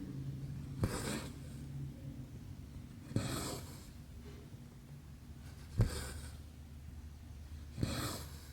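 Needle and embroidery thread pulled through cross stitch canvas, four times about two seconds apart: each a small tap followed by a short rasping swish of thread drawn through the fabric.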